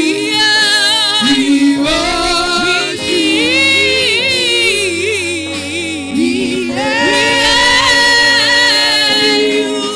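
Worship song: one voice singing long, gliding phrases over held accompaniment chords.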